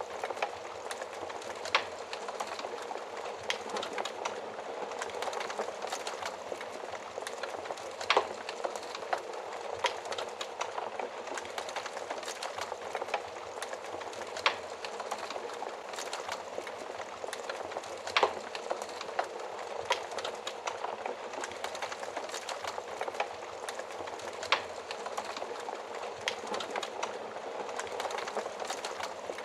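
Wood fire burning in a fireplace oven: a steady crackling hiss of the flames, with sharp louder pops every few seconds.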